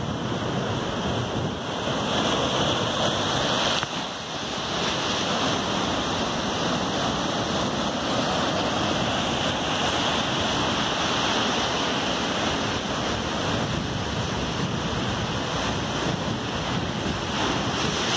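Big surf breaking and washing ashore in a steady rush of noise, with wind on the microphone; the sound dips briefly about four seconds in.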